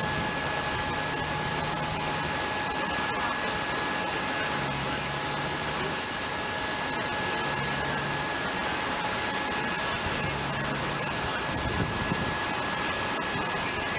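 Aircraft turbine running steadily on the flight line: a constant rushing noise with several unchanging high whining tones.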